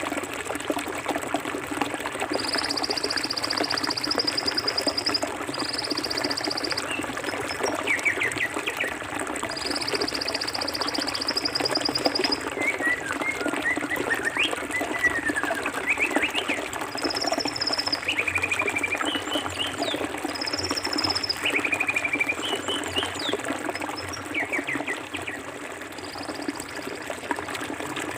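Forest stream running and trickling steadily over rocks. Birds call over it: several high, buzzy trills lasting a second or two each, and scattered short chirps.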